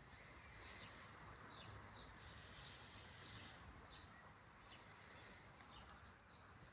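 Faint bird chirps: short, quick falling notes repeated every half second or so over a steady low background hiss.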